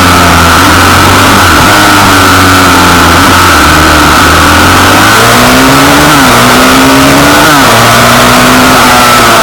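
Small single-cylinder pit bike engines revving up and down as they ride, more than one engine at a time, loud throughout.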